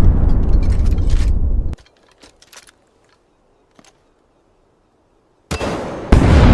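A loud, dense rumbling noise that cuts off suddenly a little under two seconds in. Near silence with a few faint clicks follows, then the noise comes back about five and a half seconds in and jumps louder near the end.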